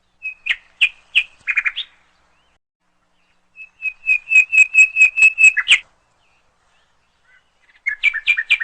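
A bird singing in three short bursts of repeated high chirping notes, the middle burst a quick run of about a dozen notes.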